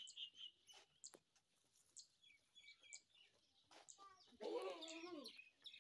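Small birds chirping in short high tweets, and one loud quavering goat bleat about four and a half seconds in.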